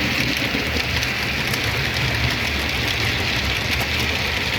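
OO gauge model trains running past on the layout: a steady hiss and rattle of wheels on the rails over the low hum of the locomotive motors.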